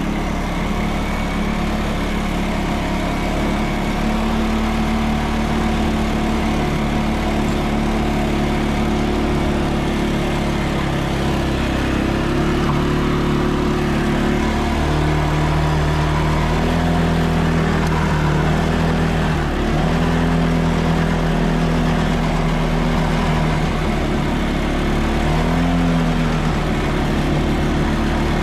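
ATV engine running while riding along a snowy trail, holding a steady pitch and then rising and dipping briefly several times in the second half as the throttle changes.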